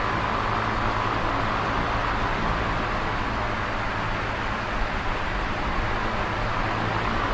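Electric fan running steadily: a constant whooshing airflow with a low motor hum underneath.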